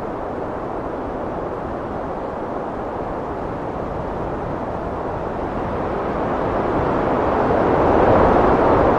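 Strong wind blowing in a steady rush that builds into a louder gust over the last few seconds.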